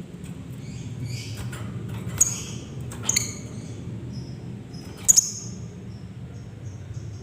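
Lovebird chirping: a run of short, high-pitched chirps and squeaks, with three sharp louder calls about two, three and five seconds in.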